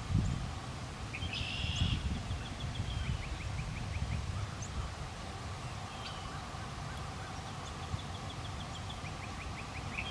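Wild bird calls: a short harsh call about a second in, followed by runs of quick short notes, with the same call again near the end, over a gusty low rumble of wind on the microphone.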